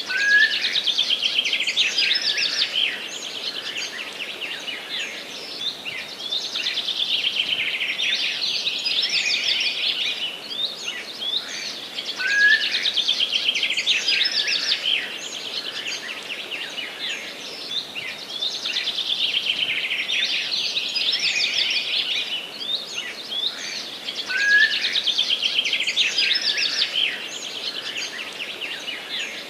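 Forest birds singing: overlapping high-pitched songs of fast trills and chirps that swell and fade every few seconds, with a louder phrase starting three times about twelve seconds apart, over a steady faint hiss.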